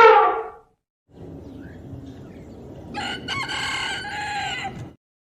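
Rooster crowing: a drawn-out crow of nearly two seconds starting about three seconds in. It follows the tail of an earlier loud call that fades out within the first second.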